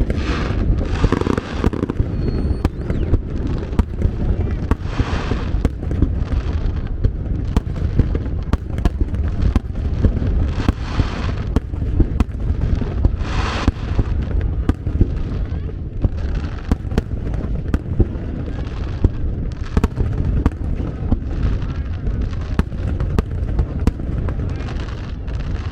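Fireworks display building toward its finale: aerial shells bursting in rapid, closely spaced bangs over a constant low rumble, with bursts of crackling about a second, five, eleven and thirteen seconds in.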